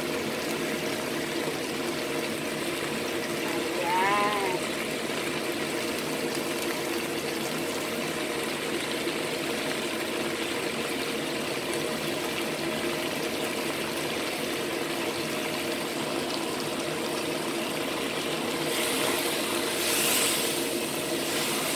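Chicken wings and cabbage sizzling in a soy and oyster sauce in a non-stick wok, with a steady hum underneath. Near the end, a spatula stirs and scrapes through the pan.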